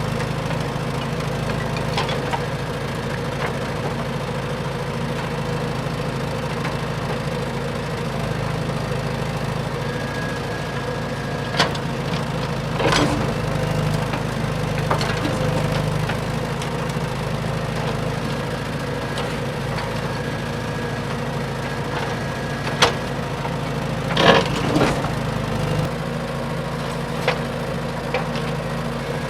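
Radio-controlled dump truck running with a steady, engine-like hum, broken by a handful of sharp clicks and cracks, the loudest a short cluster about four-fifths of the way through. The lower part of the hum drops away near the end.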